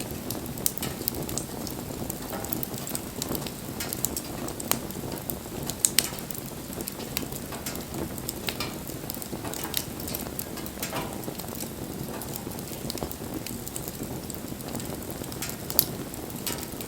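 Wood bonfire burning: a steady low rush of flame with frequent irregular crackles and pops, a few of them louder, including two close together about six seconds in.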